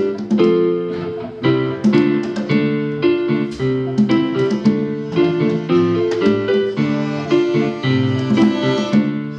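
Live band music in an instrumental passage between sung verses: an electric keyboard plays chords struck about twice a second, with no singing.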